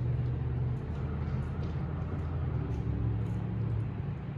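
Steady low rumble of an idling vehicle engine, with a constant low hum.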